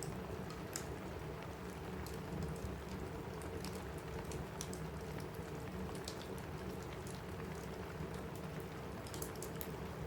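Steady rain on a cabin roof, mixed with the scattered sharp pops and crackles of a wood fire in a fireplace.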